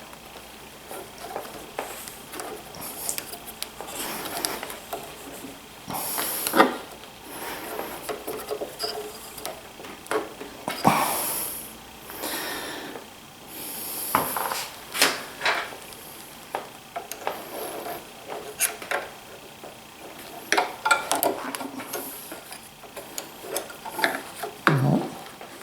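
Irregular clicks, knocks and scraping of hands and tools working on a benchtop planer's parts during reassembly; no motor is running.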